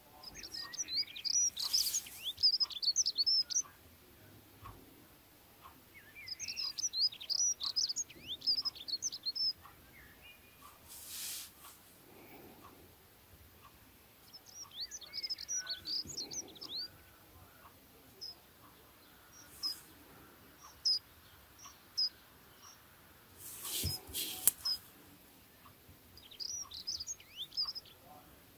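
Small bird twittering in bouts of rapid, high, short falling chirps, each bout lasting a few seconds with pauses between. A few short hissing noises come in the gaps.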